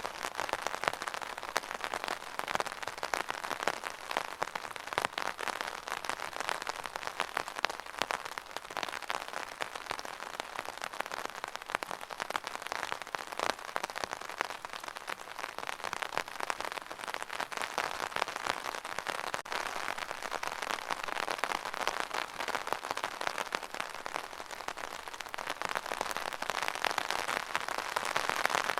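Steady rain falling on a surface, a dense patter of drops without let-up.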